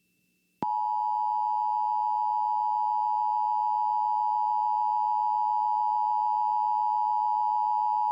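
Emergency Alert System attention signal: a steady two-tone alarm of 853 and 960 Hz that starts about half a second in. It heralds an emergency warning broadcast.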